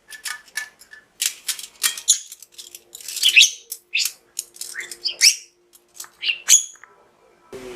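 Budgerigar chattering: a fast run of short chirps and clicks with quick rising and falling notes, stopping about seven seconds in.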